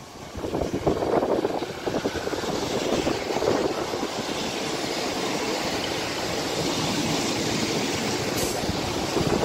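A Northern diesel multiple unit passes close by on the near line. It makes a steady rumble of underfloor diesel engine and wheels on the rails, which builds over the first second as the train arrives.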